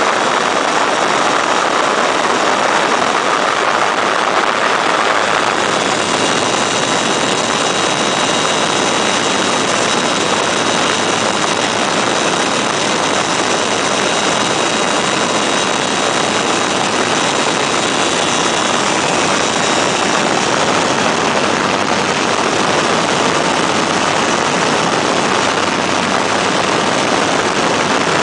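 Weedhopper ultralight aircraft's engine and propeller running steadily, with a faint high whine that comes in about six seconds in and fades by about twenty seconds.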